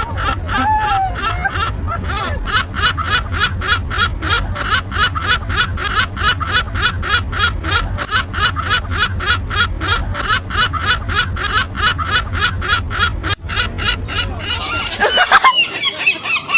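A gull giving a long, rapid laughing call, short yelping notes repeated about five times a second over a low rumble. Near the end this stops and a different, louder run of calls cuts in.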